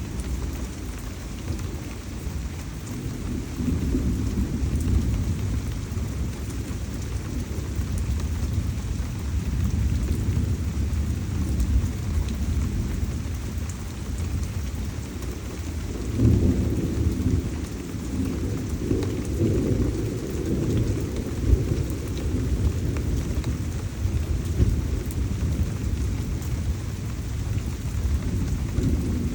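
Heavy tropical rain falling steadily, with low rumbling thunder that swells about four seconds in and again for several seconds near the middle.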